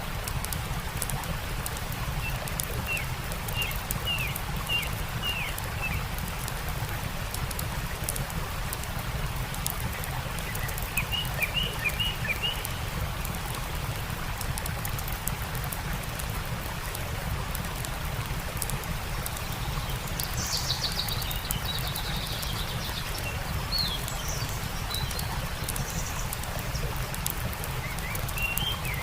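Steady rushing of a stream with faint crackling of a campfire, while small birds chirp in short quick series of falling notes, several times.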